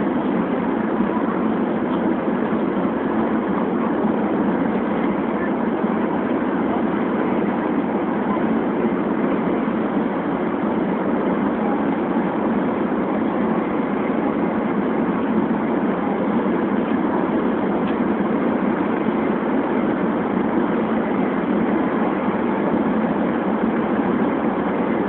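Steady running noise inside a Shinkansen bullet train's passenger cabin as it travels at speed, an even hum with no separate events.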